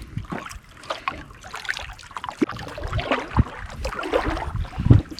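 Irregular knocks and low thumps against a canoe, with a faint wash of water around the hull.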